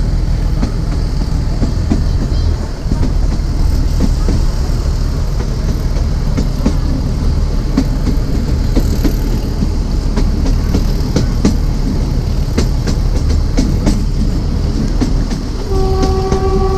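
Narrow gauge train running, heard from a coach: steady wheel rumble with sharp clicks from the wheels over the rail joints. About a second before the end, the diesel locomotive's horn starts a long, steady blast.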